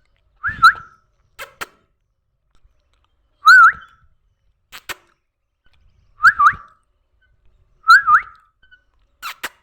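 Pet parrot giving four short whistled calls, each a quick dip then a sharp upward sweep in pitch, spaced a couple of seconds apart, with a few sharp clicks in between.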